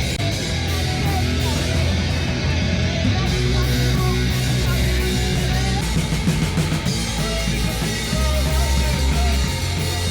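A rock band playing loud live: electric guitars and a drum kit with bass, and a singer's voice over it.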